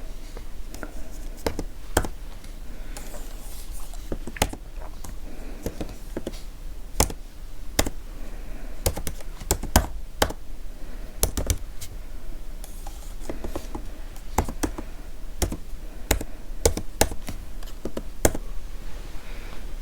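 Typing on a computer keyboard close to the microphone: an irregular stream of key clicks, with a few harder, louder keystrokes scattered through.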